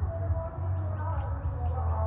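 Outdoor ambience of birds chirping and calling over a steady low rumble.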